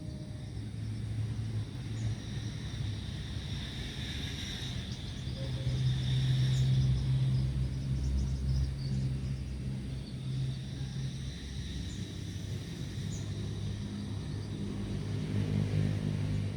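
A low, steady engine rumble like a distant motor vehicle, growing louder for a few seconds in the middle, with faint high chirps over it.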